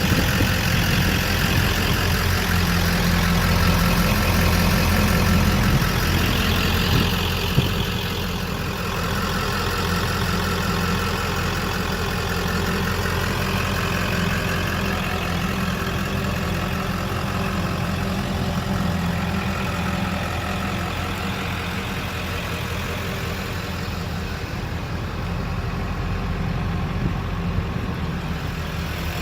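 A 7.3 Powerstroke V8 turbo diesel in a 1997 Ford F250 idling steadily, a little louder for the first eight seconds or so.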